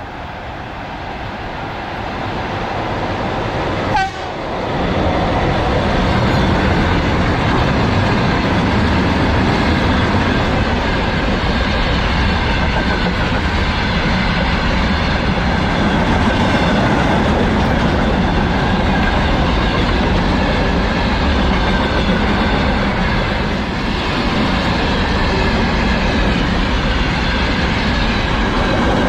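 A freight train hauled by a VL11 electric locomotive rolls past: it grows louder over the first few seconds, with a sudden thump about four seconds in as it reaches the passing point. After that the wagons' wheels clatter and rumble steadily over the rails.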